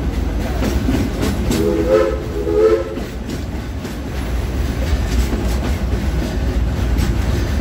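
Steam train's open passenger car rolling along the track, with a steady low rumble and the clack of wheels over rail joints. About two seconds in, the locomotive's whistle gives two short blasts.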